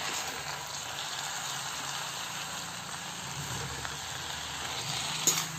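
Fenugreek leaves and potato pieces sizzling in oil in a kadhai while being stirred with a slotted metal spoon, a steady hiss. A single sharp clink of the spoon against the pan comes near the end.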